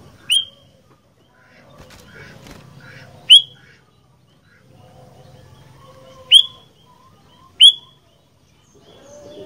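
Sooty-headed bulbul (kutilang) giving four loud, short, sharp high calls a few seconds apart, each falling quickly in pitch, with faint softer sounds between them.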